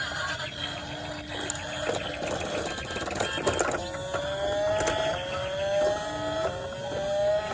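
Small electric motor of a battery toy vehicle whirring with light plastic clicking, then three rising electronic tones in a row, each about a second and a half long.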